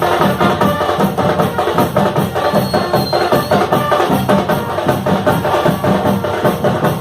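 Marching fanfare band playing a tune: horns sustaining melody notes over a steady, driving drum beat of snare and bass drum.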